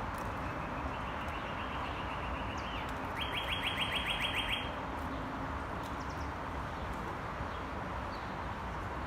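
Northern cardinal singing: two rapid runs of short repeated whistled notes, a fainter one about a second in and a louder one of about ten notes near the middle, over steady background noise.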